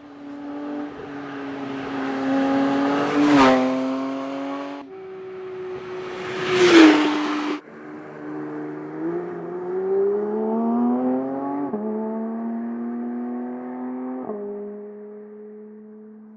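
Porsche 911 GT3's naturally aspirated flat-six engine. The car passes by twice, each pass a brief loud peak with the pitch dropping, then it accelerates away, the pitch climbing and falling suddenly at two upshifts before fading.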